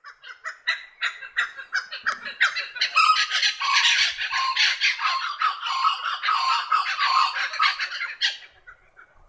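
Blue-winged kookaburra giving its crazy call: a rapid string of harsh, repeated notes that swells into a loud, dense outburst about three seconds in and breaks off abruptly near the end.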